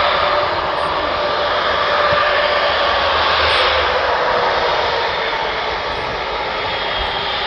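Airbus Beluga XL's twin Rolls-Royce Trent 700 jet engines during takeoff: a steady rush of engine noise with a whine slowly falling in pitch.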